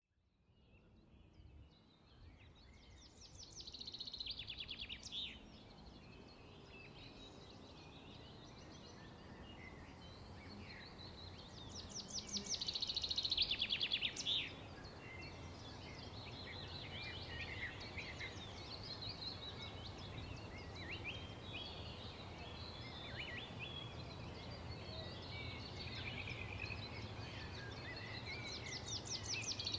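Birds chirping, with a few bursts of fast trilling, the loudest a little under halfway through, over a faint steady low hum.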